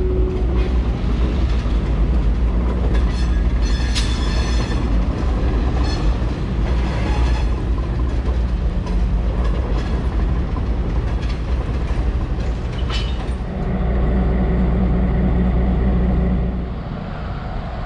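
Diesel-hauled train crossing a steel railroad bridge: the locomotive's diesel engine runs steadily while the wheels click over the rail joints now and then. The engine grows louder for a few seconds near the end as the locomotive comes close, then falls away.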